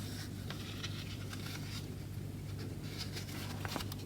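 Faint rustles and light taps of a stapled paper instruction booklet being handled, over a steady low electrical hum.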